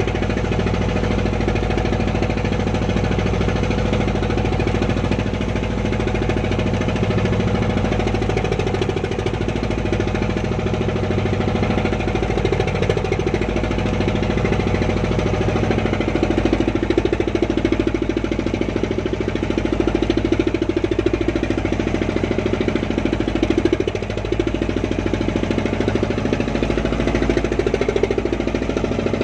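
Small fishing boat's engine running steadily with a fast, even knocking beat.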